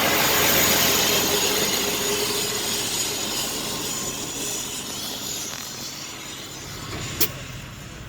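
Truck air brake system hissing: a long rush of compressed air that slowly fades, with a single sharp click about seven seconds in.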